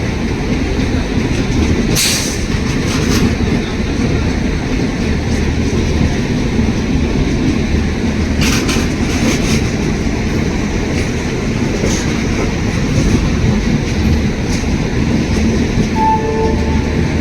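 Pushpak Express passenger train rolling past, a steady heavy rumble with wheels clattering over the rail joints. There are brief sharp metallic bursts about two seconds in and again near the middle.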